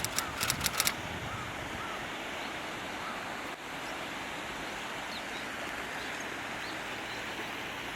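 Steady outdoor background hiss with faint, short bird chirps now and then. A quick run of about six sharp clicks sounds in the first second.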